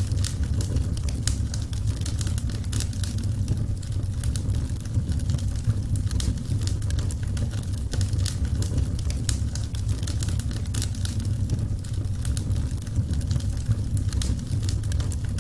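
Burning wood fire crackling, with frequent sharp, irregular pops over a steady low rumble of the flames.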